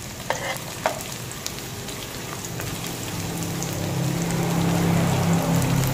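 Sliced shallots and garlic sizzling in hot oil in a wok, stirred with a stainless steel spatula that clicks and scrapes against the pan a few times in the first second. A low droning hum builds up from about halfway and grows louder.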